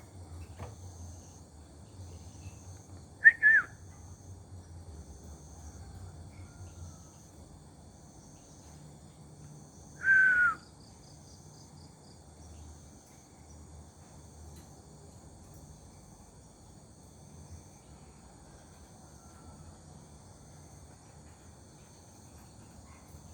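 Insects trilling steadily at a high pitch, with a bird giving two short, loud, falling calls: a double note about three seconds in and a single note about ten seconds in.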